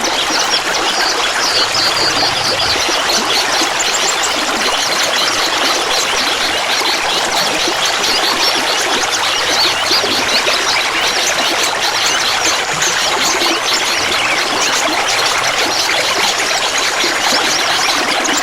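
Clear water trickling and babbling steadily.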